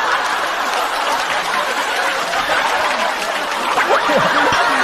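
A studio audience laughing loudly, with clapping mixed in.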